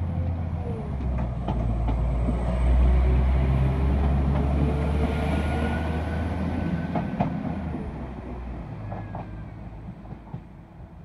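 Northern class 195 diesel multiple unit pulling away past the platform: a low diesel rumble with whining tones, loudest about three seconds in, then fading as the train draws off. A few sharp clicks from the wheels are heard along the way.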